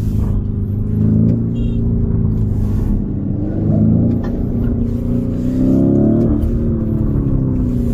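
A high-performance vehicle engine running loud, its revs rising and falling in pitch through the middle of the clip.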